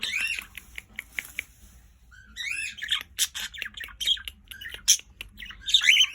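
Pet budgerigars chattering: rapid chirps, squawks and warbles, with a short lull about two seconds in.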